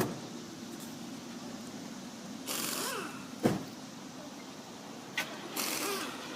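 A pickup truck's engine idling steadily, with two short bursts of rushing noise and a couple of sharp clicks over it.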